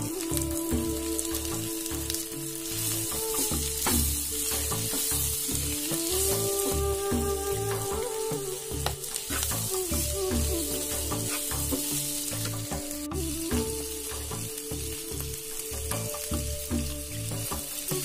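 Diced carrots frying and sizzling in a pan as they are stirred with a spatula, under background music with a steady beat and melody.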